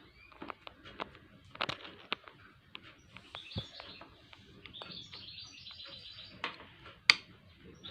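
Scattered light clicks and taps of a screwdriver tightening a screw on a sewing machine, the sharpest click about seven seconds in. A bird chirps in the background.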